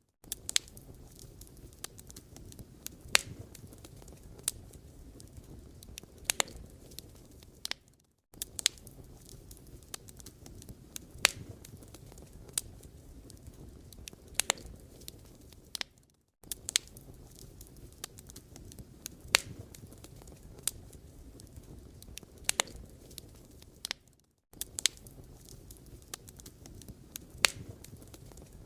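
Firewood burning, crackling steadily with irregular sharp pops over a low rumble. The sound drops out briefly about every eight seconds.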